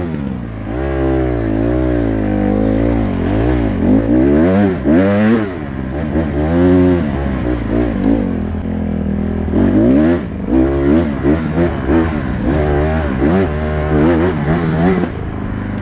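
Dirt bike engine being ridden, revving up and falling back again and again, about once a second, as the throttle is worked.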